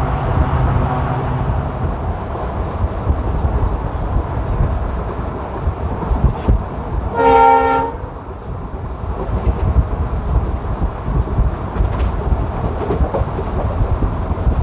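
Passenger train running, heard from an open coach doorway: a steady rumble of wheels on track mixed with rushing wind. A little past halfway the locomotive sounds one short horn blast of about a second.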